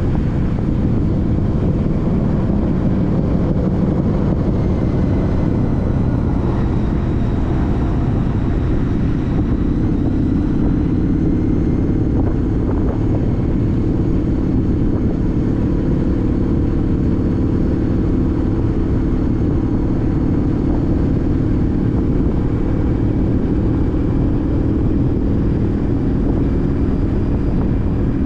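A 2014 Honda CTX1300's V4 engine running at a steady cruise while riding, mixed with wind and road noise; its low drone grows a little stronger about ten seconds in.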